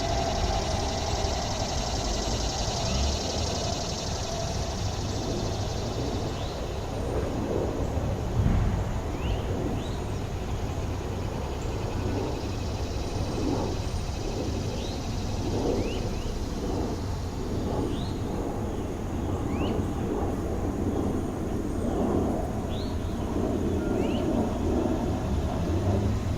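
City park ambience: a steady low rumble of road traffic and wind. A high hiss fades out after about six seconds, and short, quick rising chirps recur through the second half.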